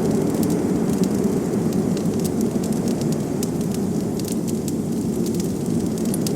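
Wood fire crackling with frequent irregular sharp pops, over a steady low rush of blizzard wind.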